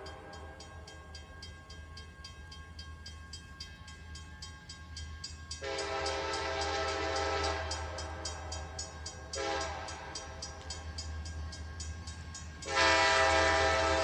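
Locomotive K5LA five-chime air horn sounding a long blast from about six seconds in, easing off, then blowing again louder near the end. Under it, the locomotive bell clangs steadily and a low rumble runs.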